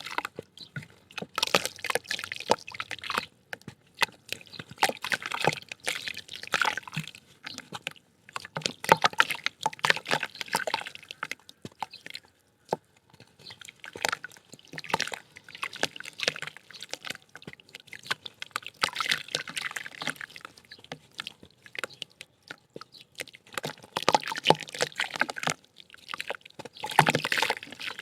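Soft wet mud dirt crumbling and being dipped in water: wet crackling and dripping that come in bursts every few seconds.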